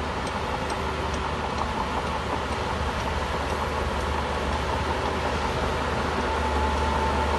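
Crawler bulldozer's diesel engine running steadily with a deep rumble, a few faint clicks and, near the end, a faint whine that grows slightly louder.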